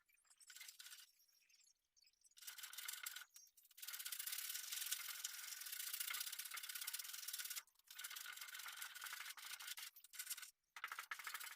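Hand-work rubbing and scraping on a panel, a gritty hiss in a few short strokes at first, then long continuous stretches broken by two brief pauses.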